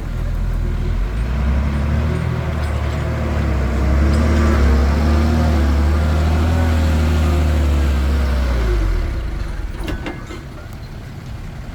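Komatsu D21P bulldozer's diesel engine working hard under load, building up in the first second or two and dropping back to a lower run about nine seconds in. A few sharp clanks follow shortly after.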